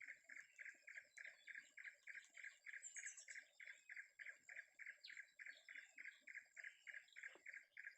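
A faint, steady pulsing call from a forest animal, about three or four pulses a second, with a thin high whine held steady behind it.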